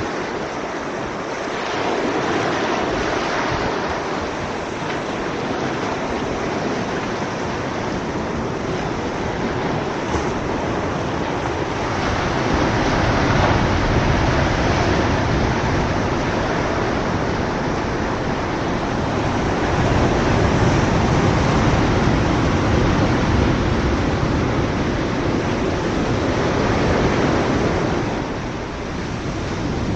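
Ocean surf washing onto a beach: a continuous rushing wash that swells louder every several seconds as waves break.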